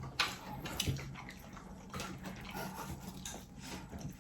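Scattered wet clicks and crackles of crab and prawn shells being handled and eaten by hand.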